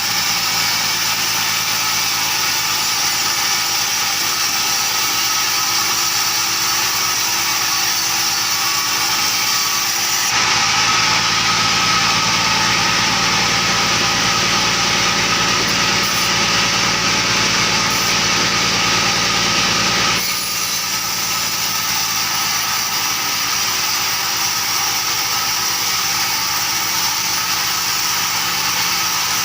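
Sawmill machinery running steadily. From about ten to twenty seconds in, the sound turns deeper and a little louder, then goes back to its earlier note.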